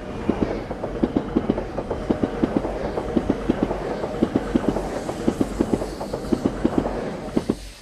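E6 series Komachi Shinkansen train passing, its wheels clicking rapidly and regularly over rail joints under a steady rushing noise. The sound drops away suddenly near the end as the last car goes by.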